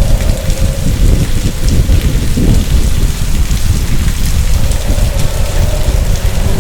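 Heavy rain in a thunderstorm, with a continuous deep rumble and a faint wavering tone above it.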